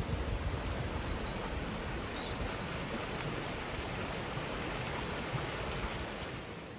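Steady rushing of the River Teign, an even wash of flowing water, with an uneven low rumble underneath.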